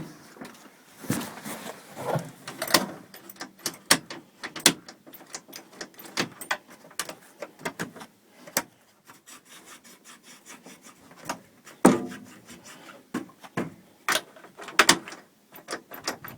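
Irregular clicks, knocks and rubbing, like things being handled, with no engine running.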